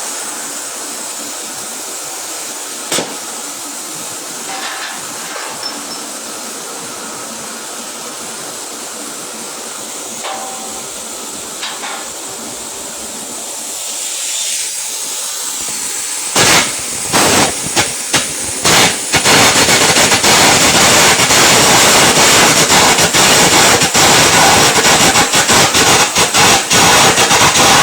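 Stick arc welding: a steady hiss at first, then about halfway through the arc is struck with a few short sputtering starts before settling into a loud, continuous crackle and sizzle.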